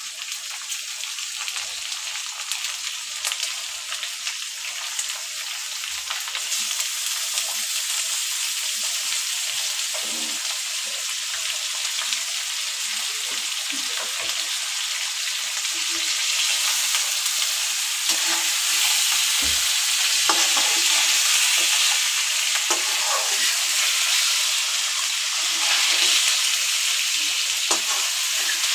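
Fish pieces sizzling in hot oil with a green chilli, coriander and garlic tempering in a metal kadhai, with light knocks of a spoon stirring them. The sizzle steps up louder about a quarter of the way in and again past the halfway point.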